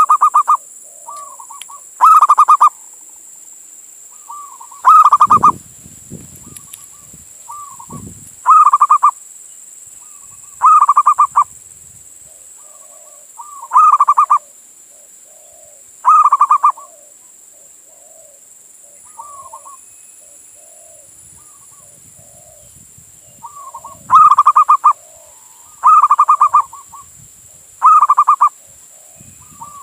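Male zebra dove (perkutut) cooing: loud phrases of rapid staccato coos, about ten in all and roughly every two to three seconds, pausing for several seconds past the middle. Fainter, lower coos sound between the loud phrases, and a few low thumps come early on.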